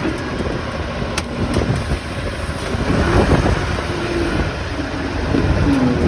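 Heavy forklift's engine running steadily while it carries a 40-foot shipping container, its pitch wavering a little, with a single sharp click about a second in.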